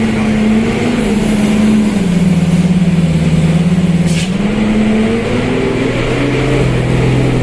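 Truck engine labouring under load on a steep climb. Its note sags between about two and four seconds in, breaks, and then climbs again.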